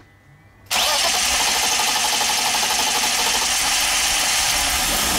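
BMW 5 Series E39 petrol engine starting up abruptly under a second in and then running steadily, loud from beneath the car. This is its first start after a fuel filter replacement, with fuel having to refill the depressurised lines.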